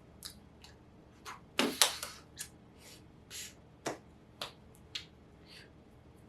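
Irregular soft taps, slaps and swishes of hands, about a dozen in all, the loudest a fuller slap a little under two seconds in, in a quiet room.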